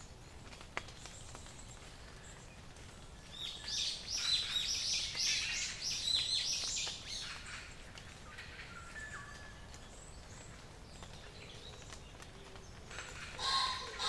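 Songbirds singing over a low background hiss: a loud, fast run of falling high notes from about four seconds in lasting some three seconds, then a few short, thin whistles, and another loud song phrase near the end.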